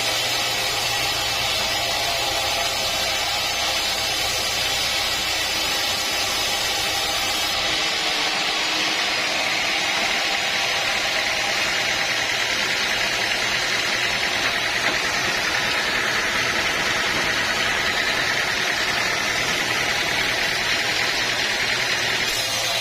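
Sawmill machinery running steadily, a loud even mechanical whir with a low hum that drops away about eight seconds in.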